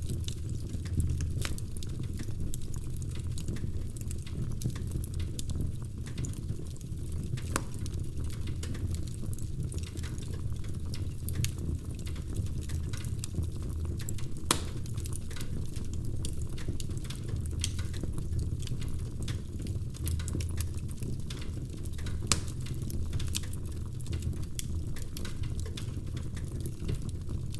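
Wood fire in a fireplace crackling, with a steady low rumble under a constant run of small pops and a few louder ones.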